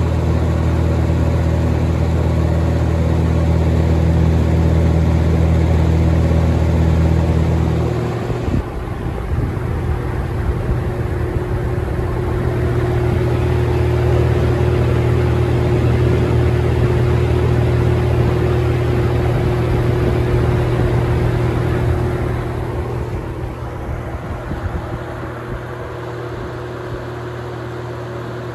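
Holmes box fan running: a steady electric motor hum under the rush of air from the blades. The hum changes pitch pattern about eight seconds in, and the whole sound becomes somewhat quieter after about twenty-two seconds.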